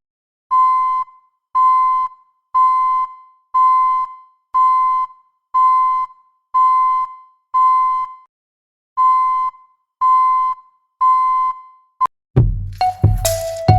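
Electronic beeping: a single-pitched beep about half a second long, repeating roughly once a second with one short break, like a reversing alarm. A click follows, and music starts near the end.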